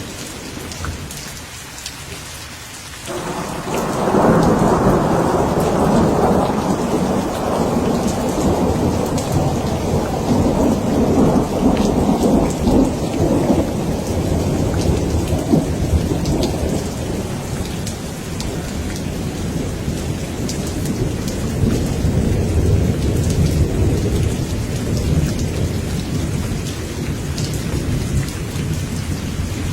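Steady rain falling, with a deep roll of thunder that breaks in suddenly about three seconds in. The thunder is loudest for the next ten seconds or so, then keeps rumbling more softly under the rain.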